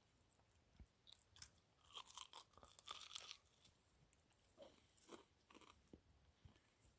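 A person faintly chewing and crunching on rock-grilled chicken, in a few short clusters of crunches.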